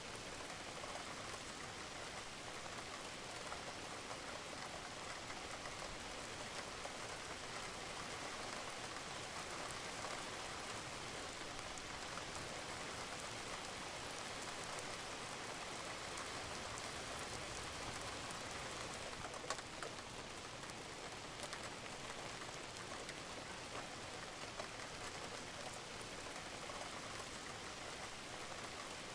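Steady rain falling on a roof, a dense patter of drops with occasional louder drips, one sharper drip about two-thirds of the way through.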